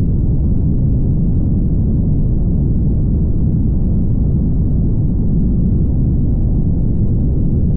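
Steady low rumble of a car travelling at highway speed: road, tyre and wind noise, with no changes or distinct events.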